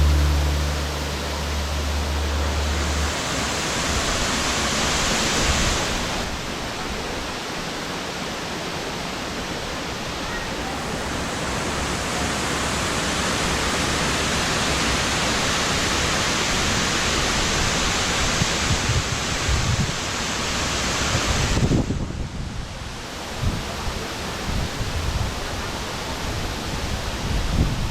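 Steady rushing roar of a waterfall. It dips sharply at about 22 seconds and then comes back rougher, with wind gusting on the microphone.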